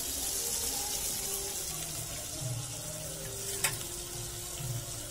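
Prawns frying in hot oil in a steel wok, a steady sizzle, with one sharp click about three and a half seconds in.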